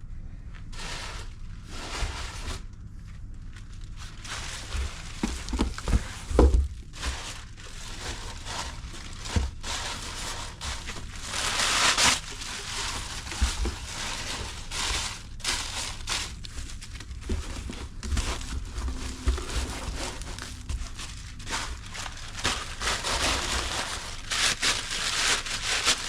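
Packing material crinkling and rustling as an item is packed into a cardboard box, with a few handling thumps.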